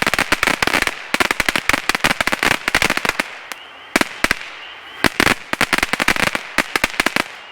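Dominator Hurricane Alley firework fountain crackling: dense clusters of rapid sharp pops in bursts with short lulls, stopping suddenly near the end as the fountain burns out.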